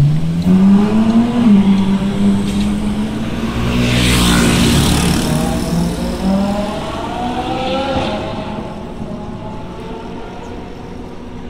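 Ferrari 458's V8 exhaust under hard acceleration. The note climbs, drops at an upshift about a second and a half in, climbs again, then fades as the car pulls away.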